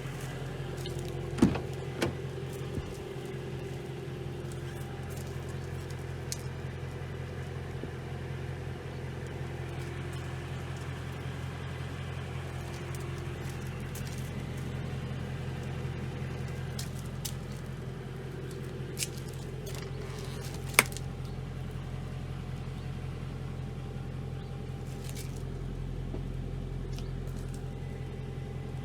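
BMW E92 M3's S65 4.0-litre naturally aspirated V8 idling steadily. A few sharp clicks or knocks sound over it, two near the start and one about two-thirds of the way in.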